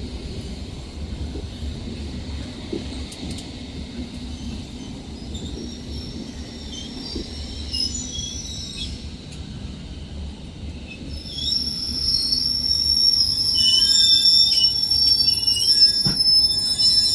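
Train running through the station with a low rumble, its wheels squealing on the rails in several high, steady tones that grow much louder about two thirds of the way through. A single sharp knock comes near the end.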